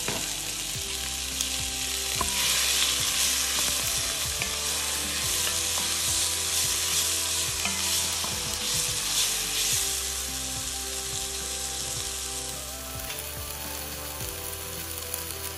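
Crushed shallots, garlic, ginger and curry leaves sizzling in hot coconut oil with mustard seeds in a stainless steel pot, stirred with a wooden spatula. The sizzle is strongest in the middle and eases toward the end.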